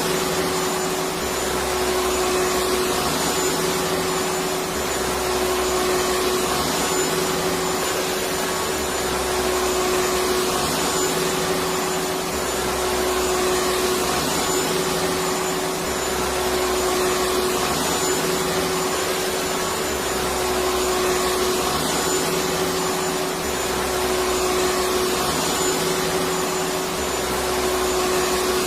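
Electric vacuum cleaner running steadily: a constant motor whine over a rush of air, with a low throb that swells and fades about every two seconds.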